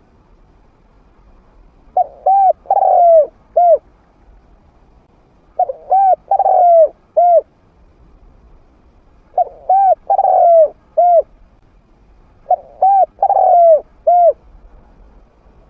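Spotted dove cooing, a trained bird with a middle-pitched voice: four phrases of four or five coos each, one every three to four seconds. It is a decoy call used to draw wild doves in to challenge it.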